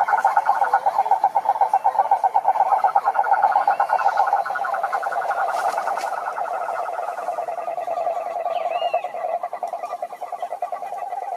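Chorus of frogs calling at a pond: many overlapping fast-pulsed calls forming a continuous trill, loudest in the first few seconds, with a few short higher chirps.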